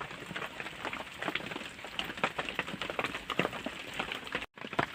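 Rain pattering on a surface, a dense irregular patter of small drops. It cuts out briefly near the end.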